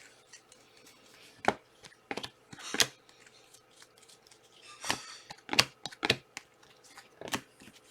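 Trading cards being handled by hand: a string of short, sharp sliding and snapping sounds, about seven of them, spread unevenly through a quiet room.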